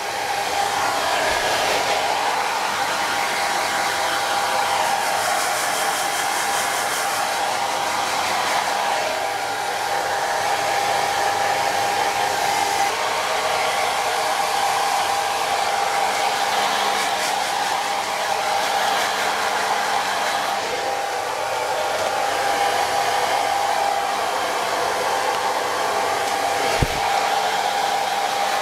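Hair dryer blowing steadily, a rush of air with a steady whine. A brief knock sounds near the end.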